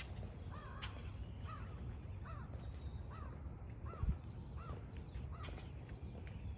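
A songbird repeating a clear whistled, up-and-down note about every two-thirds of a second, over a steady high-pitched insect trill. A low thump about four seconds in.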